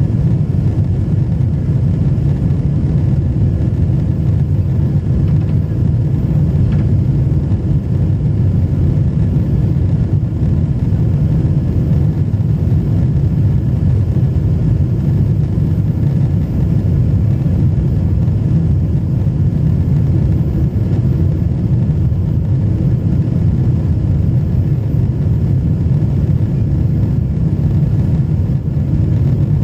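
Jet airliner cabin noise in flight: a steady low rumble of the engines and rushing air, unchanging throughout, heard from inside the passenger cabin.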